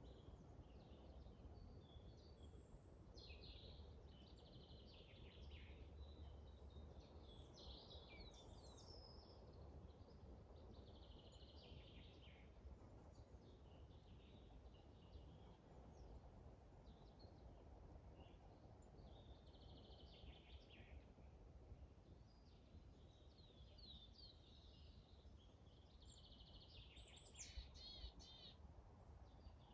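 Several small birds chirping and singing faintly, in short scattered phrases, over a steady low rumble of wind. Near the end comes a quick run of high, rapidly repeated notes, the loudest moment.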